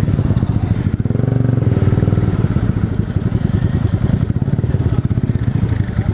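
Motorcycle engine running at low speed with a steady, fast pulsing exhaust note, swelling briefly with a little throttle about a second in.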